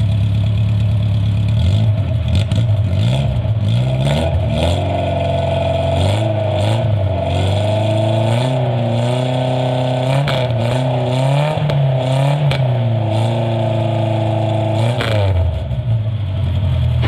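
Car exhaust fitted with an aftermarket OMEGA universal muffler, revved up and down several times from idle with a bassy note. It settles back to a steady idle near the end.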